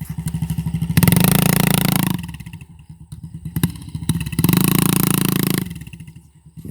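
Small dirt bike engine being ridden: it chugs at low revs between two blips of throttle, each about a second long.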